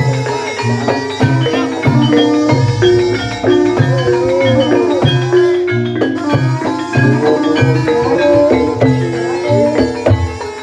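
Javanese gamelan music accompanying an ebeg horse-trance dance. Mallet-struck tuned percussion plays a busy, quick-moving melody over low drum strokes.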